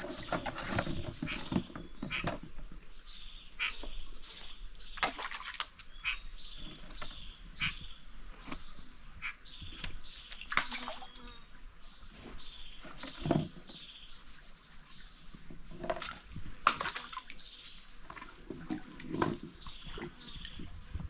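Steady high-pitched buzzing of insects, with short chirping calls about once a second and a few sharp knocks.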